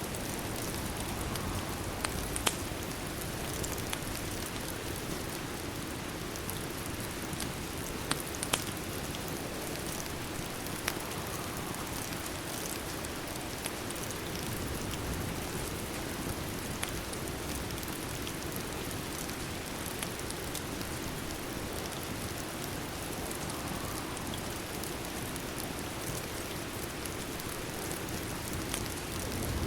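Steady rain, an even hiss with no letup, with a few sharp clicks scattered through it, the loudest about two and a half and eight and a half seconds in.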